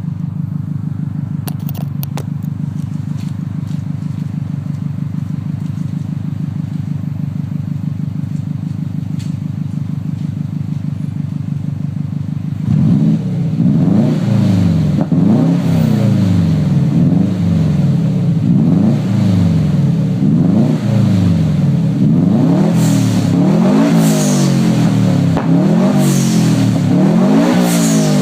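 Subaru Impreza STI's turbocharged flat-four engine running through an HKS aftermarket exhaust, idling steadily, then from about halfway through revved again and again in quick blips, roughly one every second and a half.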